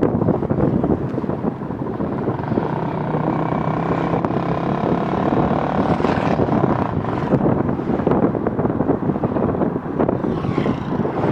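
Motorcycle engine running while riding, mixed with wind rushing over the microphone; a steady engine note stands out for a few seconds in the middle.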